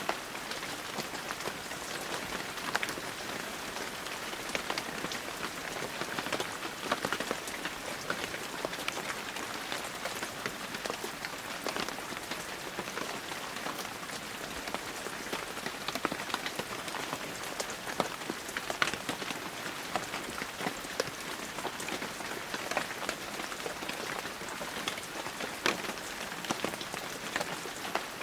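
Steady heavy rain falling, an even hiss with many separate drops pattering and ticking on surfaces.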